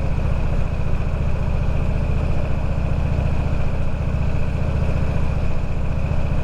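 Motorcycle engine running steadily under way, a low even exhaust pulse with road and wind noise over it, and a faint steady high whine.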